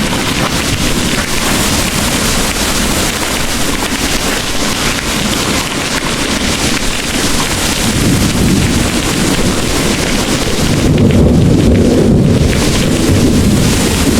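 Heavy rain falling steadily. In the second half a low rumble of thunder swells and rolls beneath it.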